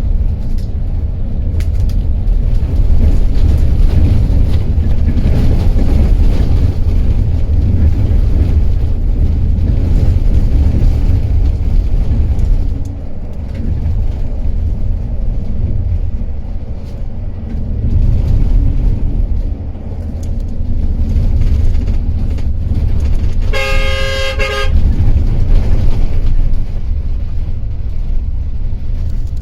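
Intercity coach driving on a highway, with a heavy, steady low rumble of engine and road noise. A vehicle horn sounds once for about a second near the end.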